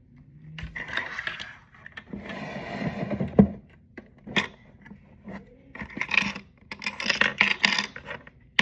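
Small hard plastic items clinking and scraping as they are handled, with scattered sharp clicks and rattles.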